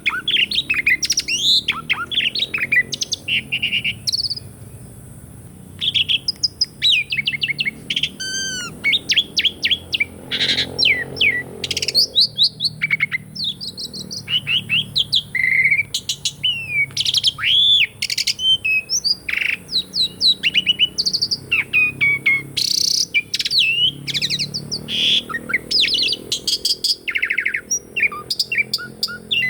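Asian pied starling (jalak suren) singing a long, varied song of whistles, upward and downward slurred notes and fast chattering note series, with a short break about four seconds in.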